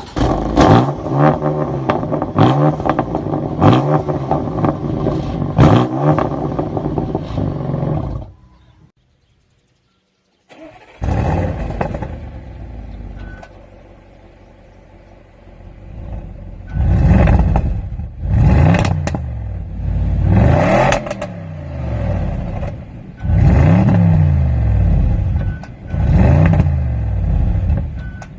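High-performance car engines revving loudly through their exhausts, in two separate clips. The first holds fast revs with repeated sharp cracks. After a short break, the second holds a run of blips, each rising and falling in pitch.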